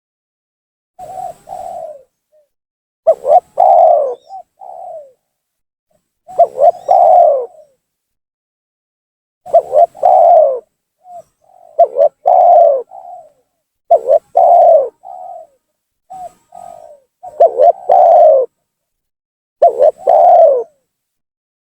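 Spotted dove (tekukur) cooing its song over and over as a lure call. Each phrase is a couple of short notes followed by a longer coo, and the phrases repeat about every two to three seconds.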